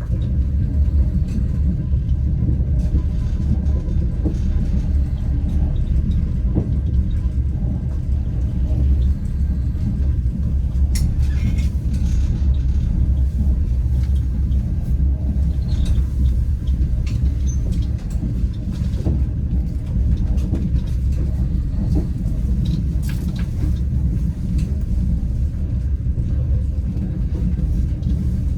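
Steady low rumble of a moving passenger train heard from inside the carriage, with scattered small clicks and knocks.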